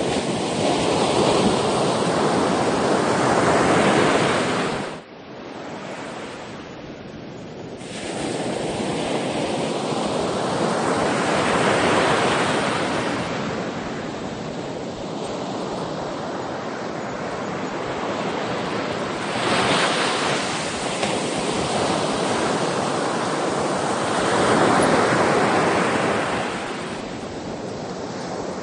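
Sea waves breaking and washing up the shore, the surf swelling and falling back several times, with a sudden quieter lull about five seconds in.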